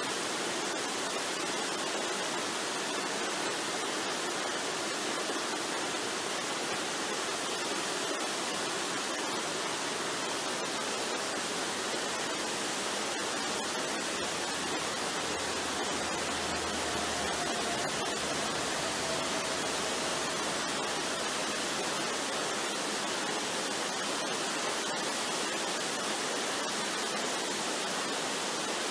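Steady rushing of a waterfall, an even unbroken hiss of falling water. A faint thin tone slides slightly down in the middle.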